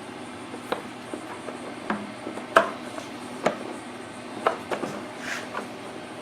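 Scattered light clicks, knocks and rubbing of an engine valve cover being worked by hand out of a tight gap in a small generator engine, with the sharpest knock about two and a half seconds in.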